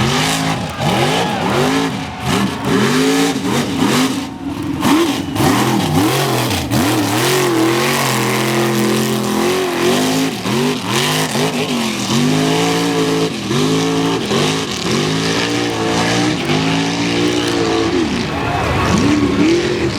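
Mega truck's big engine revving hard again and again, its pitch climbing and dropping about once a second, with some longer stretches held at high revs.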